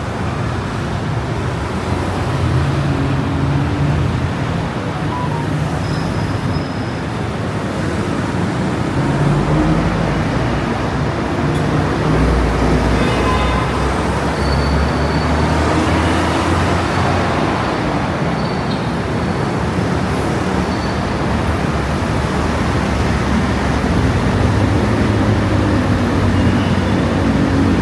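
Busy city street traffic: steady noise of cars and buses going by, with a heavy vehicle's engine running low and louder through the middle stretch.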